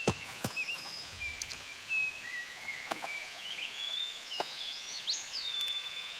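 Forest ambience of high, wavering bird calls, with a few short plinks that drop in pitch.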